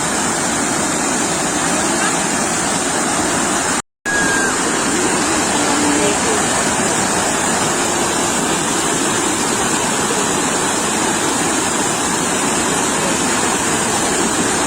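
Sea surf washing on the shore as a loud, steady rush of water, with faint distant voices; the sound cuts out completely for a moment about four seconds in.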